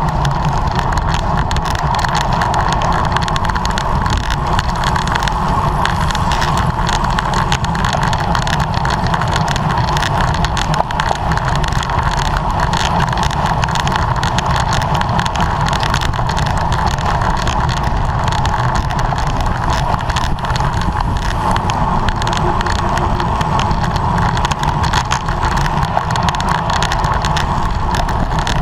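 Steady wind rush and road noise on a camera carried on a bicycle riding at race speed.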